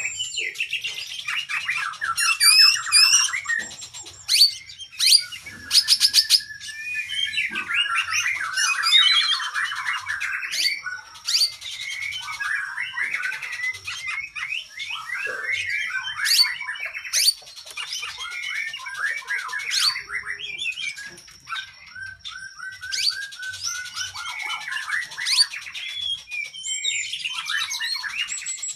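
Oriental magpie-robin (kacer) singing a long, varied song: rapid trills, sweeping whistles and sharp chips follow one another with hardly a break.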